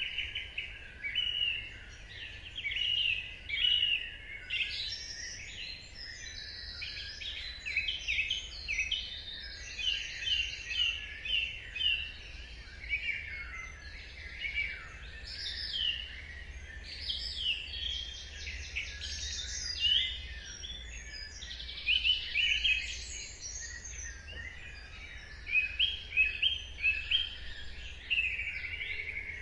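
Dawn chorus of many songbirds singing at once: overlapping chirps, rapid trills and quick falling whistles, over a faint low background rumble.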